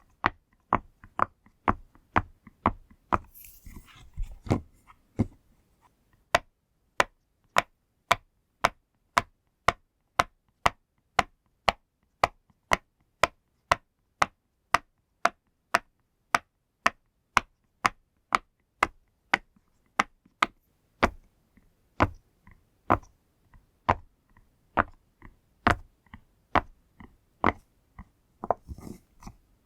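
Bubbles of a silicone pop-it fidget toy being pressed one after another. Each gives a sharp pop, at a steady pace of about two a second, with a little hand rustle near the start and near the end.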